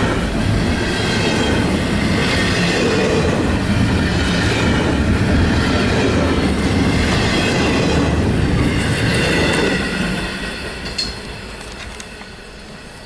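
A train rolling past on the rails, steady wheel-and-rail noise with some high-pitched wheel squeal; it fades away from about ten seconds in as the train moves off.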